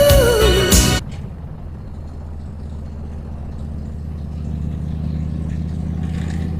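A song with singing cuts off suddenly about a second in, leaving a vehicle engine idling steadily, growing a little louder toward the end.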